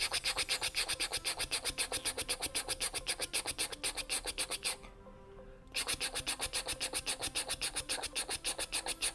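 A toothbrush scrubbing back and forth over a dentist play set's toy teeth in quick, even strokes, about six a second. It stops for about a second midway, then starts again.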